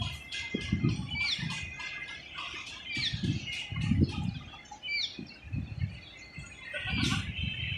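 Small birds chirping, with short, high, downward-sliding notes about once a second, over irregular low rumbling thumps.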